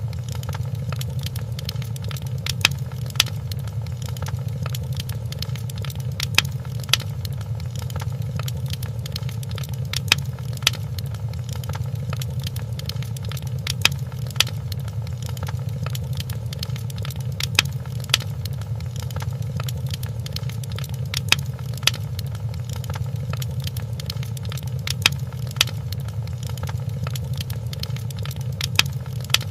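Wood fire crackling in a fireplace: a steady low rumble of flames with sharp pops that come in pairs, roughly every three to four seconds, in a regular repeating pattern.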